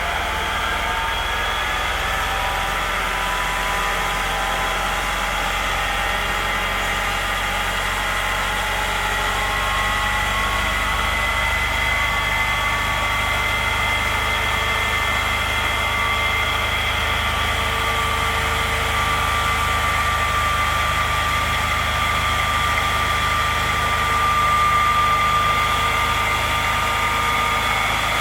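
A light fire truck's engine running steadily, with high whining tones over the low rumble that drift slowly in pitch.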